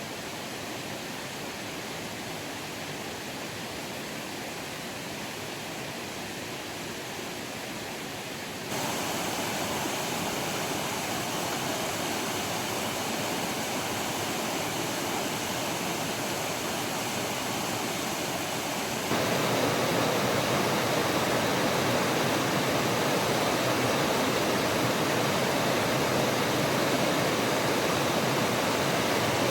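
Mountain stream rushing over rocks, a steady, even rush of water. It jumps abruptly louder about 9 seconds in and again about 19 seconds in.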